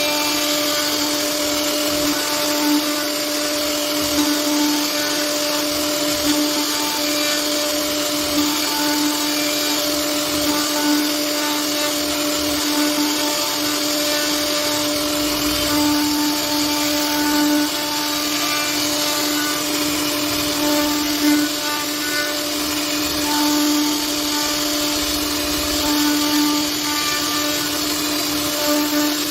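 CNC router spindle running with a steady whine over a constant hiss as its bit carves wood.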